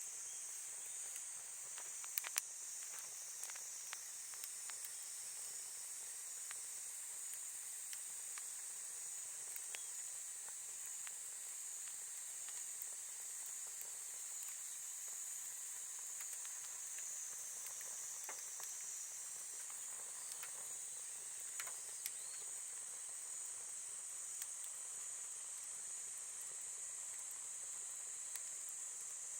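A steady, high-pitched insect chorus, with a wood campfire crackling and popping now and then, two pops close together about two seconds in.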